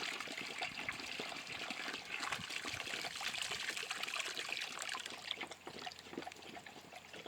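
Water trickling in a bucket of dirt, with many small crackling pops as air bubbles escape from the soil as it soaks up the water. It grows quieter near the end.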